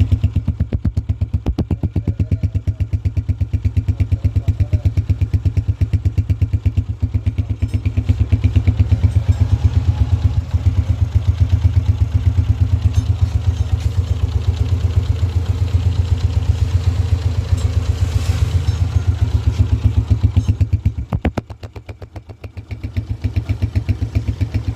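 Honda CG125's single-cylinder four-stroke engine idling with an even, rapid exhaust beat. The sound drops briefly in level a few seconds before the end, then picks up again.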